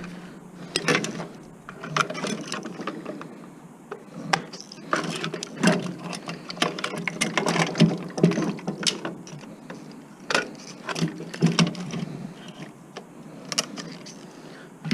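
Irregular clicks, clanks and rattles of hand tools and loose metal and plastic parts while an electronic appliance is taken apart for scrap.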